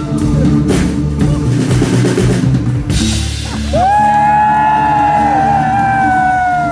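Live rock band playing a song's ending: the drum kit pounds out fills with cymbal crashes over a held low chord. About three seconds in the drums stop, and a long high note slides up and holds, sinking slowly in pitch over the sustained chord.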